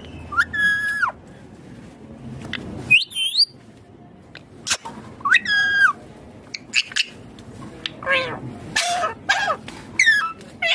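Indian ringneck parrot giving a series of calls, each a second or less, some held on one pitch and some sliding upward, coming closer together near the end.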